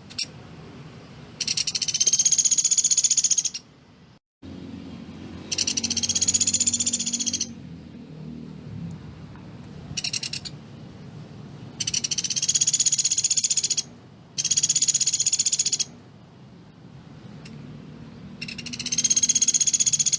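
Pelatuk beras woodpecker giving its fast, dense rattling 'tembakan' call, about six rattling trills of one to two seconds each, separated by short pauses.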